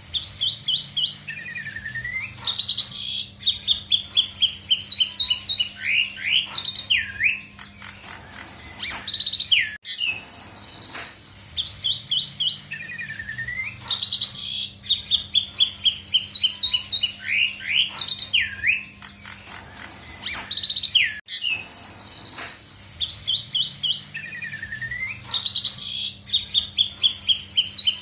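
Asian pied starling (jalak suren) singing a busy song of rapid chirps, trills and steep whistled slurs, a 'full isian' song packed with other birds' calls. The same song phrase, about 11 seconds long, plays again and again with a short break between repeats, over a faint steady low hum.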